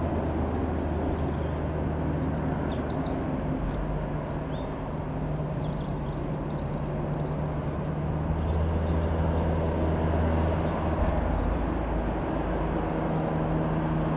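Cessna F172N Skyhawk's four-cylinder piston engine running steadily at low power, a constant low hum, with small birds chirping briefly now and then.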